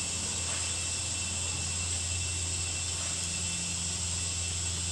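Kodiak 100's PT6A turboprop engine turning over for a compressor wash: a steady low hum with a thin high whine and a constant hiss over it.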